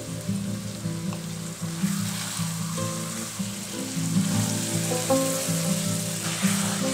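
Masala-coated chicken pieces sizzling and frying in hot oil in a pan, with background music of held, changing notes playing over it.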